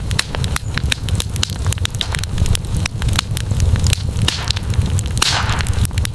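Wood campfire crackling, with many sharp snaps and pops over a steady low rumble of the flames. A short hiss rises out of the fire a little after five seconds in.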